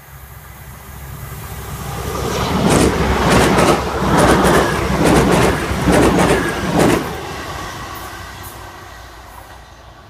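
British Rail Class 180 diesel-hydraulic multiple unit passing at speed. The engine and rail noise build as it approaches, the wheels click in quick pairs over the track about once a second as the coaches go by, then the sound fades away.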